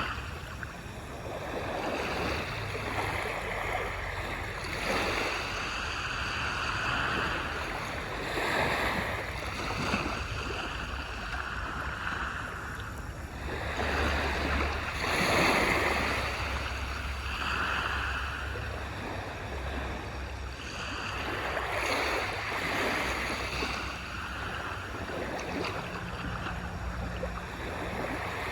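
Gentle waves washing onto a beach, each swell rising and falling every few seconds.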